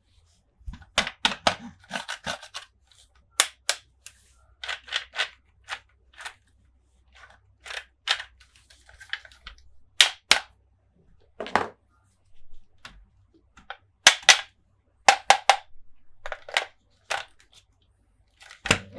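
Sharp plastic clicks and taps from toy monster trucks and playset pieces being handled, coming in irregular clusters of a few quick clicks with short pauses between.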